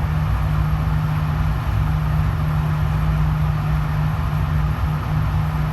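Steady low machine hum with a constant droning tone, the air-handling fans of an indoor shooting range running, while no shot is fired.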